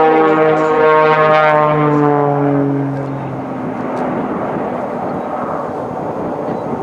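Aerobatic airplane's engine and propeller flying past: a droning, pitched tone that slowly drops in pitch and fades about three seconds in, giving way to a rougher rushing engine noise.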